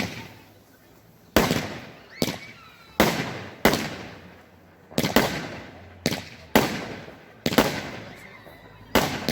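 Fireworks exploding in the air: about ten sharp bangs, roughly one a second, each followed by a short fading echo and crackle.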